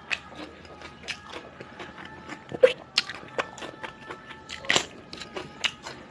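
A person eating close to the microphone: chewing with irregular wet mouth clicks and smacks, a few louder ones, the loudest about two and a half seconds in.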